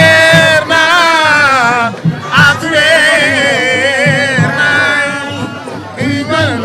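A man singing long, wavering held notes with sliding ornaments over a regular low drum beat.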